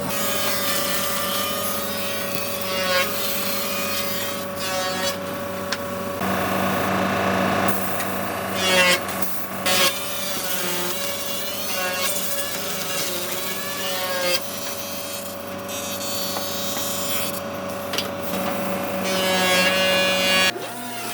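Woodworking power machinery running as it cuts and scrapes wood, with a steady hum under the cutting noise and a few sharp knocks about eight to ten seconds in.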